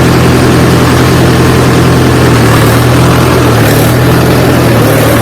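Mahindra tractor's diesel engine running steadily at close range, with a low, even hum.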